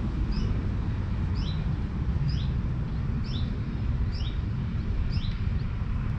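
A small songbird calling over and over, a short high two-note chirp about once a second, over a steady low rumble.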